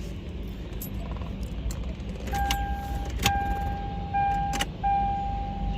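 A steady electronic warning tone from the car, sounding in on-off stretches from about two seconds in, broken by a couple of sharp clicks, over a low steady rumble.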